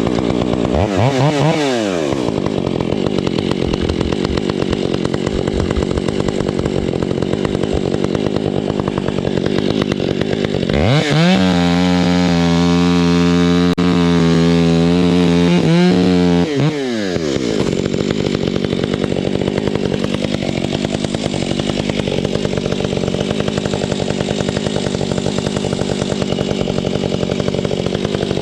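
Two-stroke chainsaw running: a quick rev up and down near the start, then a lower rattling run. About eleven seconds in it revs up to a steady high speed for about five seconds before dropping back.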